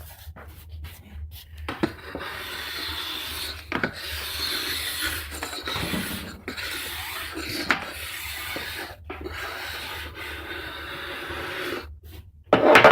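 Fine metal file drawn in long overlapping strokes along a ski's steel side edge in an 88-degree file guide, rasping as it sharpens the edge and takes off surface rust. A brief louder noise comes near the end.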